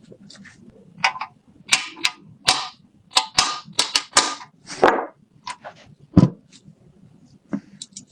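Metal parts of a submachine gun being handled: a quick run of sharp metallic clicks and short clacks, then a heavier knock about six seconds in and a lighter one after it.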